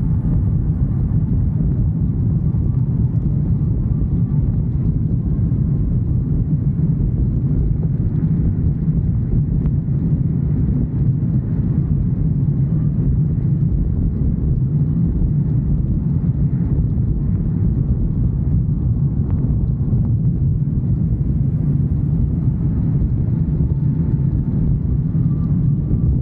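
Steady low rumble of a motorcycle under way, engine and wind noise at an even level.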